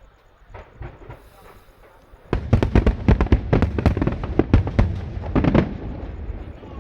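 Fireworks bursting overhead: a few scattered bangs, then from about two seconds in a rapid barrage of many bangs for about three seconds, tailing off near the end.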